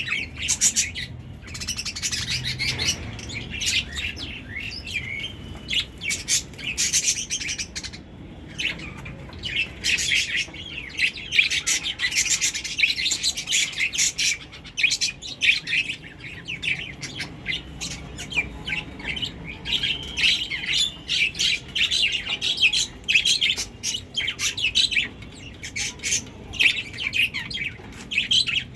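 Pet budgerigars chattering: a continuous stream of quick, high chirps and warbles.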